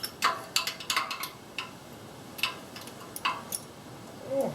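Hand tools clinking on metal in irregular sharp clicks as a socket wrench works the exhaust manifold bolts from underneath the car, with a brief grunt near the end.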